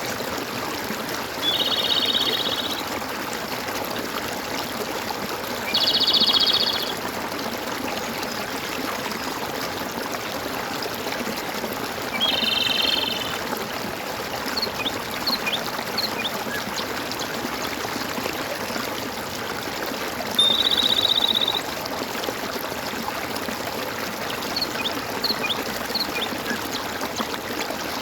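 Steady babbling of a stream, with a short, buzzy trill repeated four times, a few seconds apart, over the water. A few faint, very short high chirps come in between.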